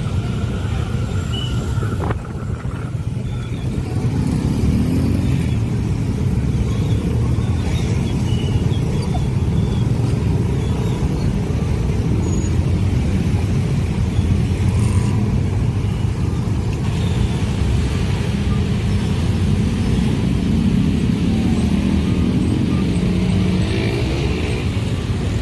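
A long train passing over a level crossing, a steady low rumble that dips briefly about two seconds in, then builds and holds.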